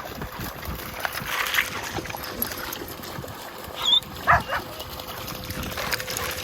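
Excited dogs giving a couple of short yelps about four seconds in, over a steady rustle and light knocks.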